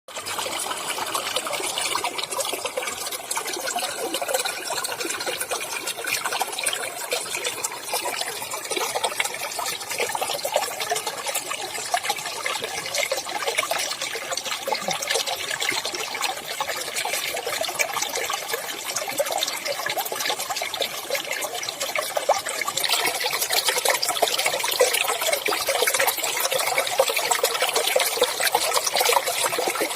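Clear running water flowing in the wild, trickling and splashing steadily, a little louder in the last several seconds.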